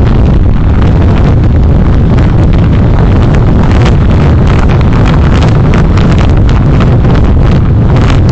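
Loud, constant wind buffeting on the microphone of a moving vehicle, mixed with road and engine rumble and crackling from the overloaded microphone.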